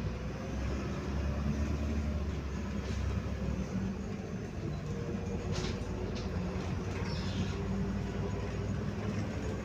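MAZ 105 city bus under way, heard from inside: a steady low engine and drivetrain rumble with a faint whine, and two short rattles about halfway through.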